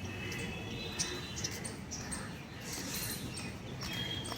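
Mynas giving harsh, repeated chirping calls, about two a second: a pair mobbing a cat that is near their nest.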